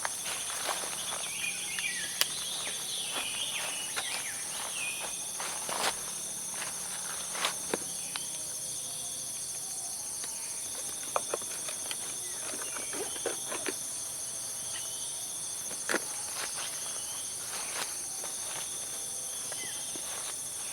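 Steady high-pitched chorus of forest insects such as crickets, with irregular sharp clicks and knocks scattered over it.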